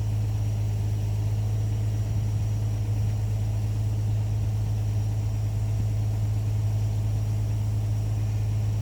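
Excavator's diesel engine running steadily at idle, a constant low hum.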